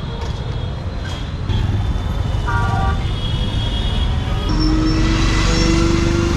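Street traffic: vehicle engines running steadily, with a short horn toot about two and a half seconds in and a longer steady tone near the end.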